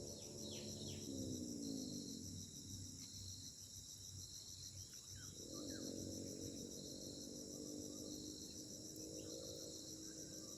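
Tropical forest insects trilling: a high trill that pulses on and off a little more than once a second, over a steady, still higher buzz.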